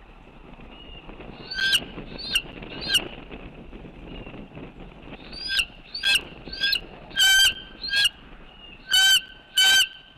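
A large bird calling repeatedly with loud, harsh, short calls: three about two seconds in, then a faster run in the second half, the last few drawn out longer.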